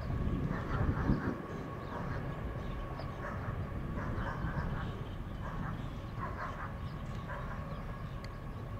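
Low, steady rumble of a loaded Union Pacific coal train running past, a little louder in the first second, with short calls now and then in the background.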